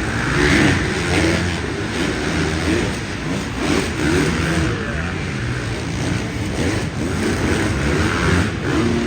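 Several motocross dirt bike engines revving up and down over one another, their pitch rising and falling again and again as the bikes ride the track.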